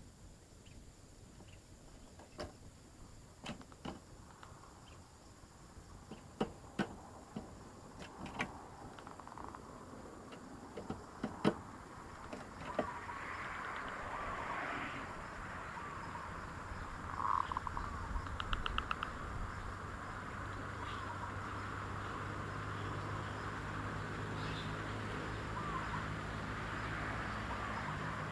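Zebra dove (perkutut) calling: a short, rapid trilled coo about two-thirds of the way through, over a steady background hiss, with scattered sharp clicks in the first half.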